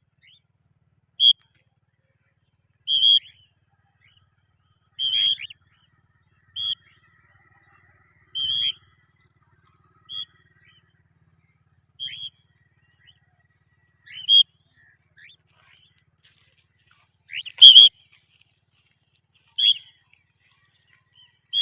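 Cockatiels giving their shrill contact calls: about a dozen short, high, rising calls, one every couple of seconds, with a louder call about three-quarters of the way through.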